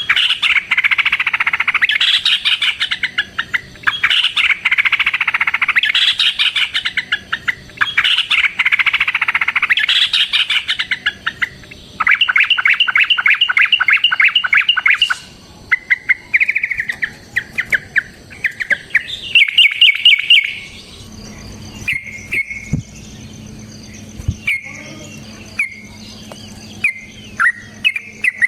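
Yellow-vented bulbul (trucukan) singing loudly in long, chattering bursts of bubbly notes about every two seconds. About twelve seconds in it gives a fast, even trill, then shorter scattered calls. A faint low hum sits underneath in the second half.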